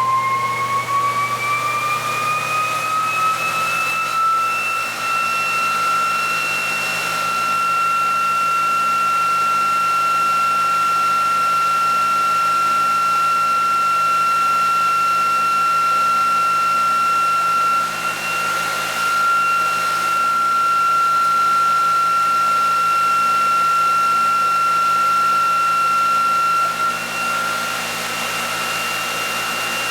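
Small electric motor whining as it speeds up over the first few seconds, then holding a steady high pitch. The motor is fitted with a ReGen-X motor coil.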